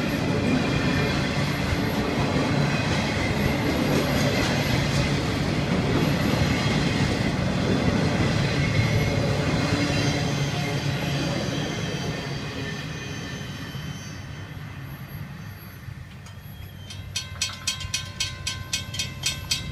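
Florida East Coast Railway intermodal freight train rolling past: a steady rumble of wheels on rail that fades away over the second half. Near the end a fast, even ringing starts, about four strikes a second.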